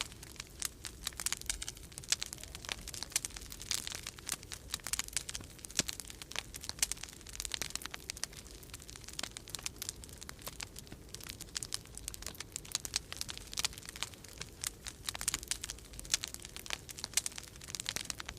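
Wood fire crackling in a fireplace, dense irregular pops and snaps, over a low steady rumble of winter storm wind.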